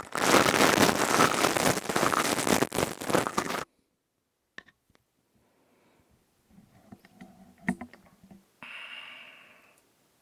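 Close-up ASMR crystal-tube sounds: a loud, dense scraping rustle for about three and a half seconds that cuts off suddenly, then scattered soft clicks and taps, and a short fading ring near the end.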